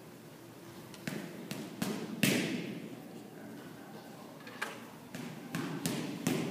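A series of sharp thuds and slaps ringing out in a large hall, about four in quick succession with the loudest a little over two seconds in, then another five or so near the end.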